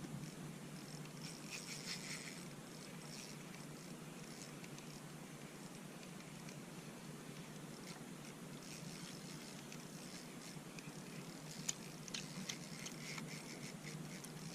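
Faint handling noise of an angler fighting a fish through the ice: scattered small clicks and crackles over a low steady hum, with one sharper click about two-thirds of the way through.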